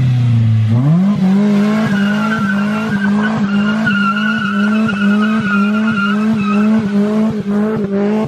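Car driven through a skid: the engine's pitch falls, then climbs hard about a second in and is held high with rhythmic dips a few times a second, while the tyres squeal through the middle of the run.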